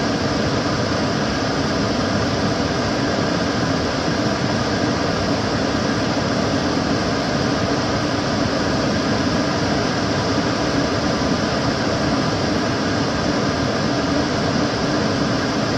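Kitchen cooker hood extractor fan running steadily, a constant rushing of air with a low hum underneath.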